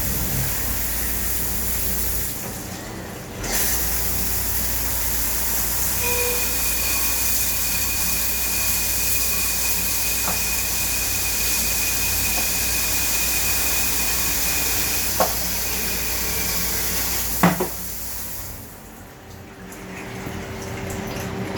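CNC turn-mill lathe running with coolant flowing, a steady hissing wash of liquid. A thin high whine holds for about ten seconds midway. Two sharp clicks come near the end, and the flow noise briefly drops away twice.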